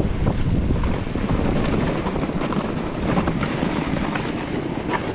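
Wind buffeting the microphone over the hiss and scrape of a snowboard sliding on snow.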